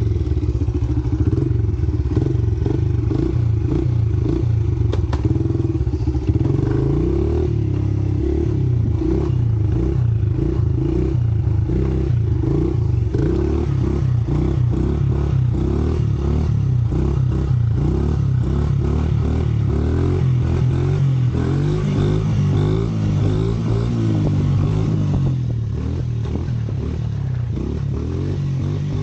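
Pit bike's small single-cylinder engine running under a rider, its pitch rising and falling over and over with the throttle. It is a little quieter for the last few seconds.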